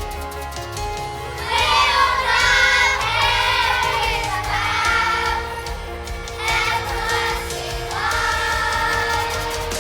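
A group of children singing together over an instrumental backing; the voices come in about a second and a half in.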